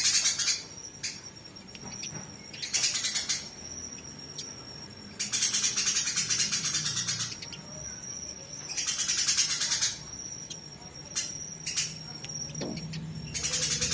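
Eurasian tree sparrows fighting: bursts of harsh, rapid chatter about every two to four seconds. Between the bursts a thin, steady high call holds on.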